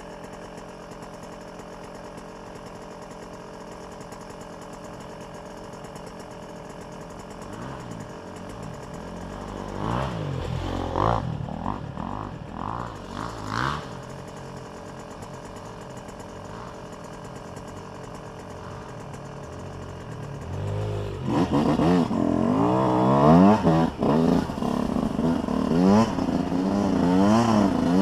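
Dirt bike engine running steadily, blipped a few times about a third of the way in. From about three-quarters of the way through it is ridden with repeated rising and falling revs that grow louder.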